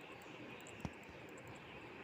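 Faint steady hiss of background noise, with a single sharp click a little under a second in.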